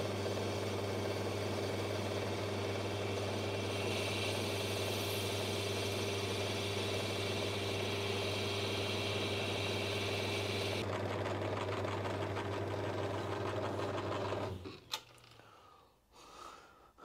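Metal lathe running with a steady motor hum. From about four seconds in to about eleven seconds, a cutting tool takes a light facing pass on the spinning metal part, adding a high hiss as it machines the raised lettering off. The lathe is switched off a few seconds before the end and winds down.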